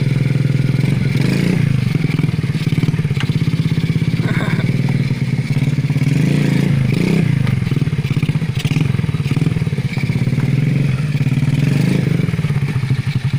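Mini trail bike's 110 cc underbone-type four-stroke engine idling steadily, with a few brief rises and falls in engine speed.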